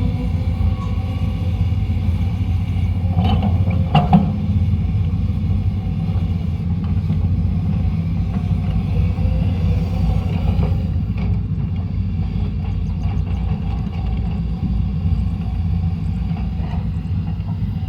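Sany SY200C excavator's Mitsubishi 4M50 four-cylinder diesel running steadily under working load, a low, even rumble. A couple of short knocks come about three to four seconds in.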